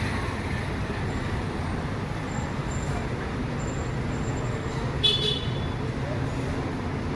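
Street traffic noise, a steady rumble of passing vehicles. About five seconds in, a short high-pitched horn toot sounds once.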